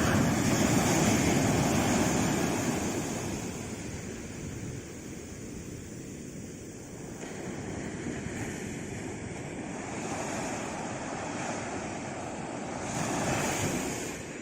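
Sea waves breaking and washing ashore. A wave surges loudest in the first few seconds, then the wash eases off, and another swell rises near the end.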